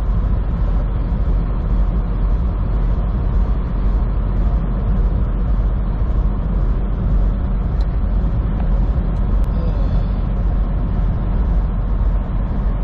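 Steady engine drone and road noise inside a semi truck's cab at highway speed.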